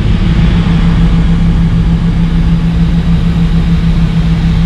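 A motor vehicle engine idling steadily: an even, low hum that holds one pitch with no revving.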